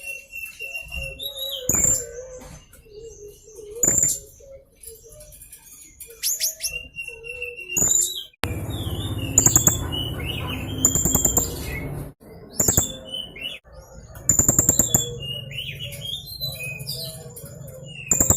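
Young blue-crowned hanging parrot (serindit) calling continuously, with repeated sharp, very high-pitched chirps and fast trills. A stretch of rustling noise sounds in the middle.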